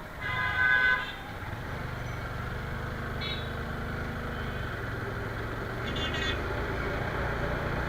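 Motorcycle engine running steadily at low revs, with a vehicle horn honking for about a second at the start and two short, higher beeps later on.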